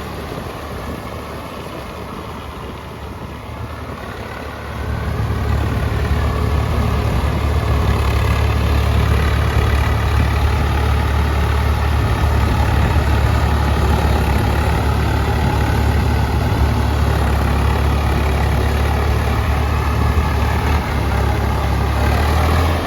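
Heavy diesel engine running, getting louder about four and a half seconds in and then running steadily.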